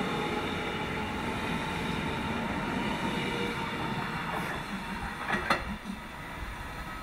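Berlin S-Bahn electric train pulling away: a steady whine and rolling rumble slowly fade, with a few sharp clacks about five seconds in.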